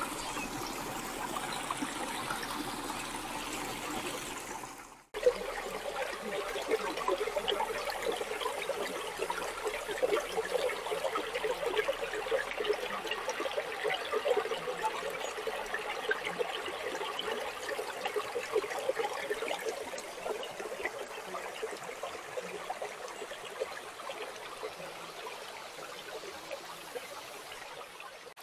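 Water of a stream running and trickling over rocks, a steady rushing noise. It cuts off briefly about five seconds in and comes back a little louder.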